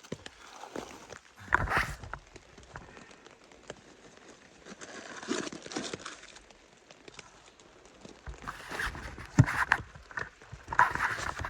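Irregular close rustling and knocking of things being handled, with louder scuffling bursts about two seconds in and again near the end.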